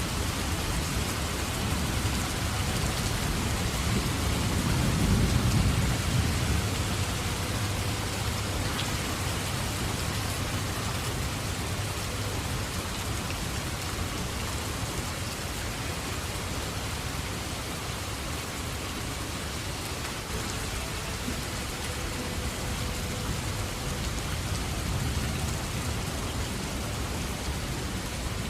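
Steady heavy rain falling, with a low roll of distant thunder swelling about five seconds in and a fainter rumble near the end.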